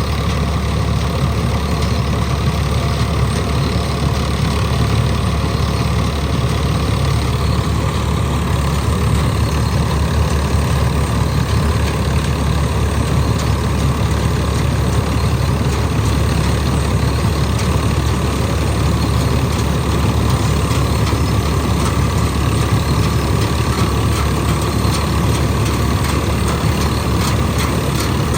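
Swaraj combine harvester's diesel engine and machinery running steadily at a constant, heavy drone.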